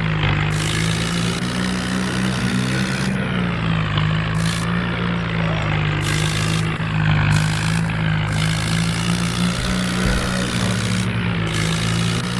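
A 5055 tractor's diesel engine running steadily while pulling a loaded trolley.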